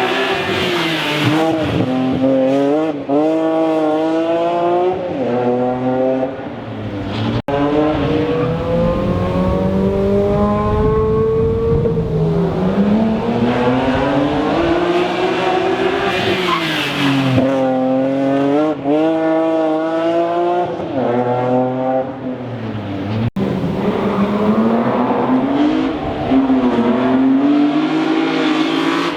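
Rally car engine driven hard, its pitch climbing and falling again and again as it accelerates, shifts and brakes through the stage. The sound breaks off briefly twice.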